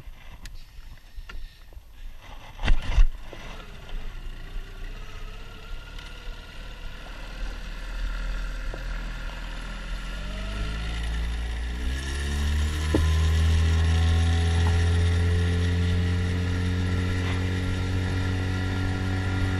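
Mercury 9.9 hp outboard motor speeding up: its pitch rises smoothly from about eight seconds in, then levels off into a loud, steady run. A few sharp knocks come in the first three seconds.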